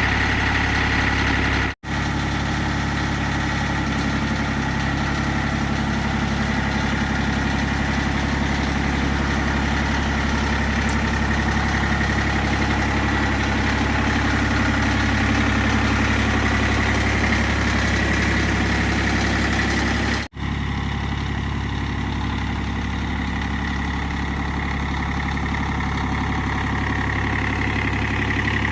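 Tractor engine running steadily at idle. The sound cuts out abruptly for a split second twice, about two seconds in and again about twenty seconds in.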